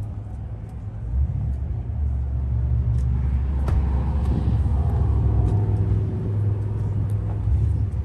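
A car engine running with a steady low rumble, and a sharp click about four seconds in.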